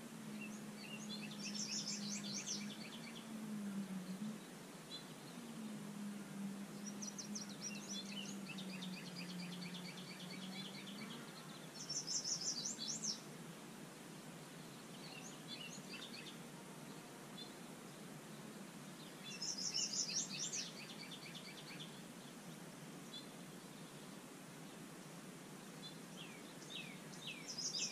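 A songbird sings short trilled phrases several times, with pauses of a few seconds between them, over quiet outdoor background noise. A low steady hum runs under the song for about the first ten seconds.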